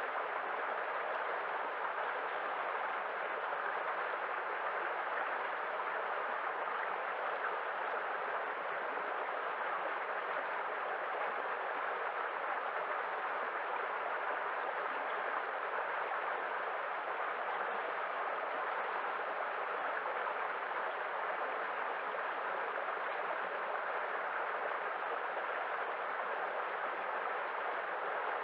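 Running water rushing in a steady, unbroken stream, with no change in level.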